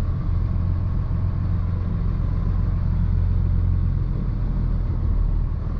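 Box truck engine running steadily at low speed while the truck reverses slowly, a constant low rumble.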